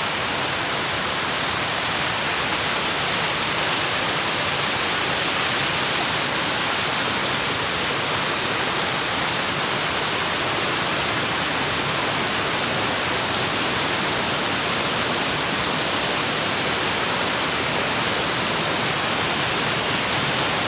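Waterfall rushing: a steady, even hiss of falling water, strongest in the high range.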